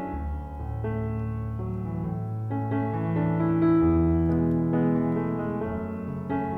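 Background piano music: slow chords over a bass line.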